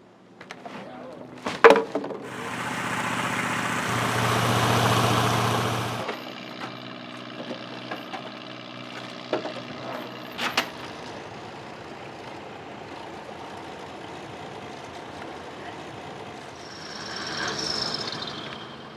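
Engine running steadily, with a sharp knock about two seconds in followed by a loud rushing burst of about four seconds, and a swell in level near the end.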